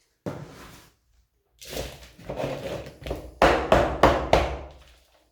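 Coarse bark-and-sphagnum orchid potting mix rustling and scraping as it is worked into a large pot around the plant. Four sharp knocks about a third of a second apart in the second half are the loudest sounds.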